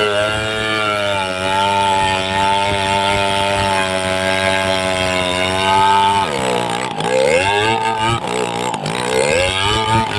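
Two-stroke chainsaw running at high revs. About six seconds in, its engine speed drops and wavers, then climbs back near the end.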